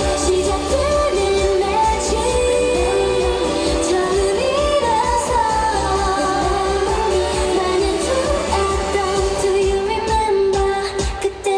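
K-pop girl group singing live over a pop backing track with a steady beat, heard through a stage sound system. The low end and beat drop out briefly near the end.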